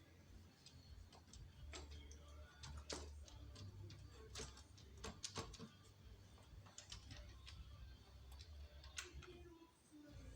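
Faint, irregular clicks and light metallic taps of hand tools working on an engine, over a low rumble.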